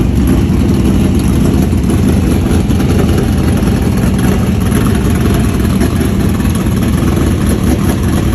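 Dirt-track modified race car engines running, a loud steady drone.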